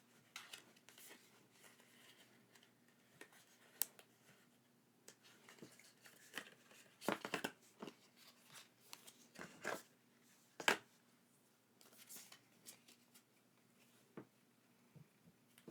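Paper and plastic packaging handled by hand: quiet, scattered rustling and crinkling with light clicks, busiest a little past seven seconds in and with one sharp click near eleven seconds in.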